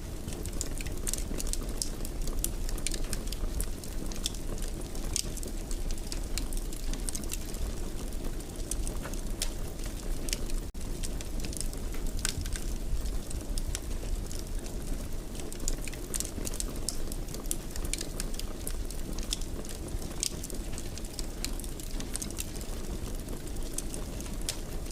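Wood fire burning in a fireplace: a steady low rumble of flame with frequent small, irregular crackles and pops.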